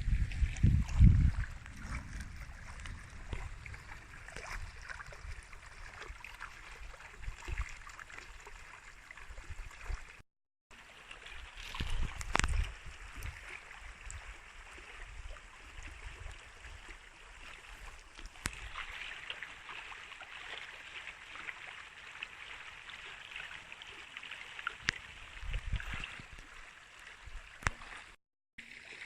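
Storm rain falling with water running, a steady hiss throughout. Loud low rumbles come at the start, about twelve seconds in and near the end, and the sound drops out completely for a moment twice.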